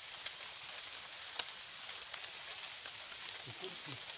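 Steady rain falling: a constant hiss with many scattered sharp drop ticks. A faint voice is heard near the end.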